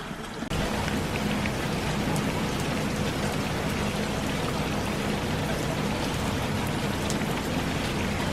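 Heavy rain pouring down steadily, a constant hiss of water that starts abruptly about half a second in.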